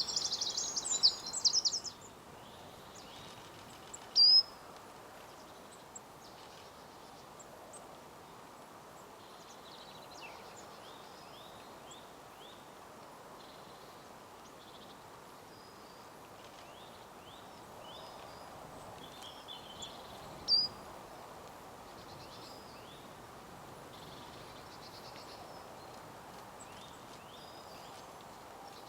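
Woodland birds calling: a busy burst of song in the first two seconds, then faint scattered high chirps, with a short loud sharp call about four seconds in and another about twenty seconds in, over a steady faint background hiss.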